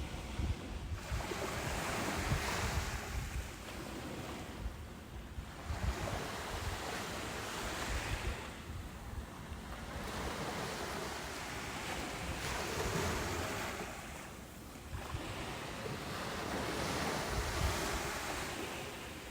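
Ocean surf breaking on a beach and washing back, a steady noise that swells and ebbs about every four to five seconds.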